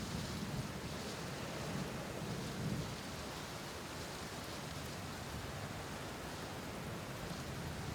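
Steady rain with low thunder rumbling, swelling briefly near the start and again a little under three seconds in.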